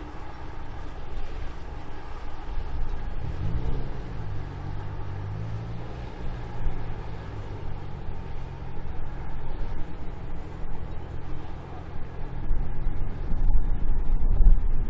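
A vehicle engine speeding up, its pitch rising a few seconds in, then running steadily. A louder low rumble builds near the end.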